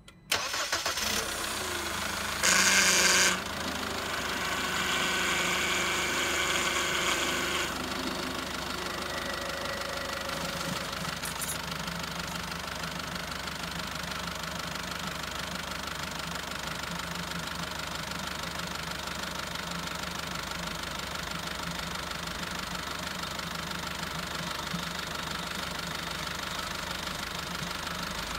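Car engine starting, running a little higher for several seconds with a brief louder burst about three seconds in, then settling to a steady idle. It is driving the power-steering pump, which flushes the old fluid out through the disconnected return hose while new fluid is poured into the reservoir.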